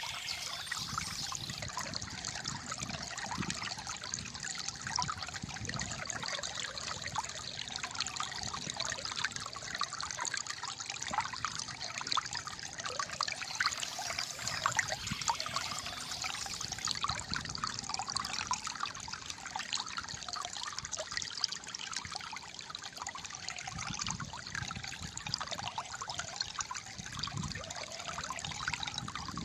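Calm flowing water trickling and gurgling steadily, a dense, continuous splashing patter.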